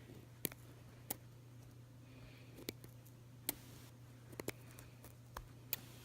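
Faint handling noises: about half a dozen short, sharp clicks scattered over a few seconds, over a low steady hum.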